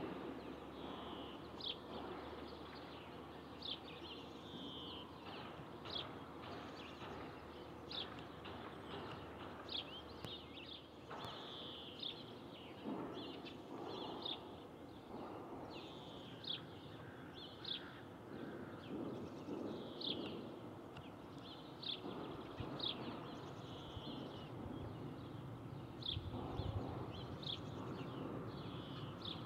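Small birds chirping, short high notes about once a second, over a steady low rumble.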